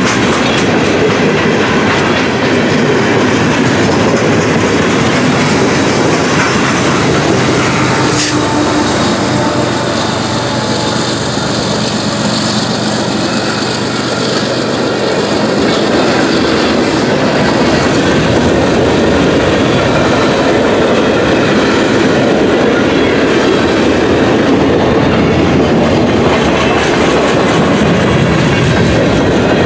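Long freight train of boxcars, hoppers and autoracks rolling steadily past, wheels clattering over the rail joints. About halfway through, a mid-train GE ES44AC remote locomotive goes by with its diesel engine running under power, adding a low steady engine note over the car noise.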